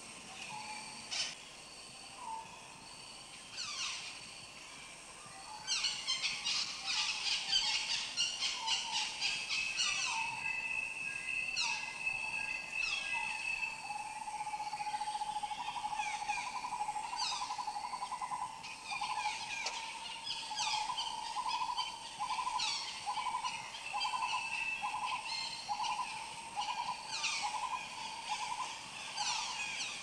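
Birds calling and singing: repeated quick downward-sweeping whistles, a dense burst of chirping from about six seconds in, and a long, steady trill through the second half.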